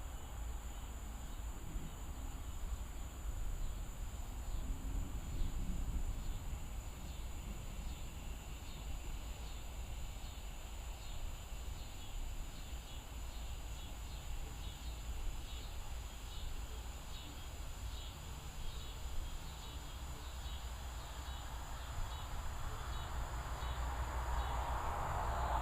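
Evening insects chirping in a steady rhythm of about one and a half pulses a second, over a low steady rumble. A louder rushing noise builds near the end.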